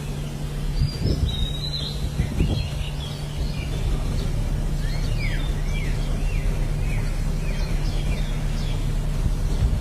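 Small birds chirping over a steady low hum and rumble, with a quick series of repeated arched chirps around the middle.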